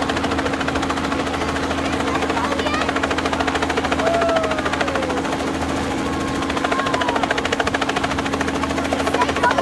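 Helicopter overhead, its rotor blades chopping in a fast, even beat over a steady engine and turbine drone.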